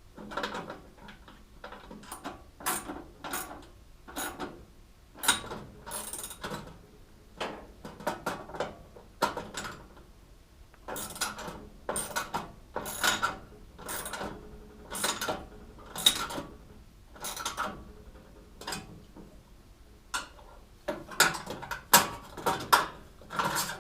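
Hand tools and metal parts clicking and knocking in irregular clusters as bolts are fitted and tightened on a race car part.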